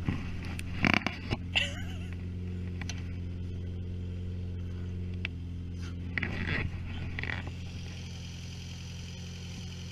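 Citroën AX engine running at a steady speed with no revving, heard first from inside the cabin and then, from about five seconds in, from beside the open engine bay. A few short, louder noises break in over the hum.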